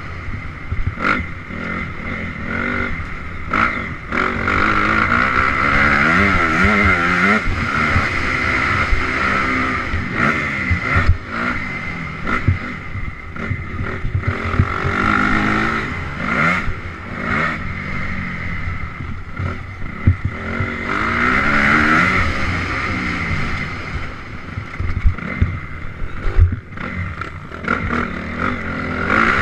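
Honda CRF 250R dirt bike's single-cylinder four-stroke engine revving up and falling back again and again while riding a trail, with frequent short knocks and clatter.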